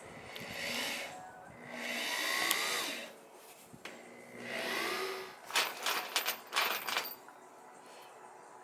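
Power drill pre-drilling a hole in wood: the motor whirs in three short runs of about a second each, winding up in pitch. A quick string of sharp clicks follows for about a second and a half.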